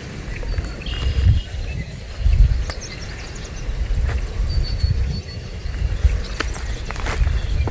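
Open marsh ambience: an uneven low rumble that swells and fades, a few sharp clicks, and faint short high bird chirps.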